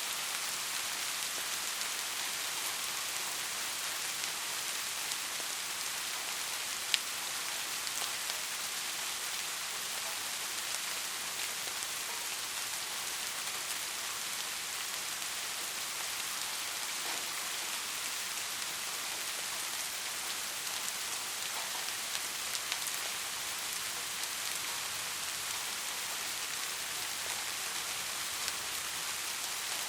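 Steady rain falling, an even hiss of many drops, with one sharp drop tick about seven seconds in.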